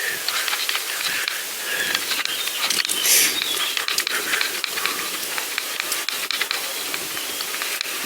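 Steady hiss with scattered light clicks, the riding noise of a pedal bike on the move: wind on the microphone and tyres on the path. A brief louder gust comes about three seconds in.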